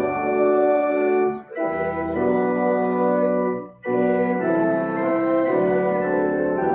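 Church organ playing sustained chords in phrases, breaking off briefly about a second and a half in and again near four seconds in.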